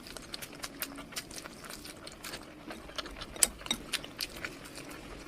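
Close-miked eating sounds: chewing, with a rapid, irregular run of wet mouth clicks and smacks, the loudest about three and a half seconds in.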